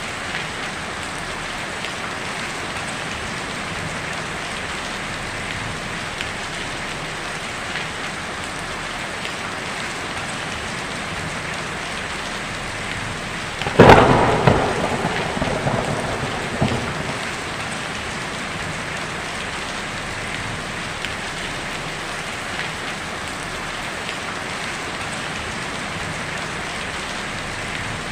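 Heavy rain falling steadily on a tin roof, with a sudden sharp thunderclap about halfway through that rumbles away over about three seconds.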